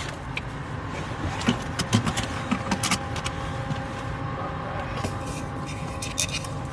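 Car engine idling, heard from inside the cabin as a steady low rumble, with scattered clicks and knocks from inside the car.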